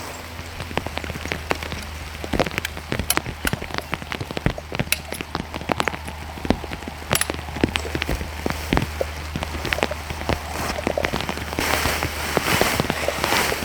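Rain falling, with many irregular sharp drop hits close by over a steady wash of rain, heavier for a moment near the end.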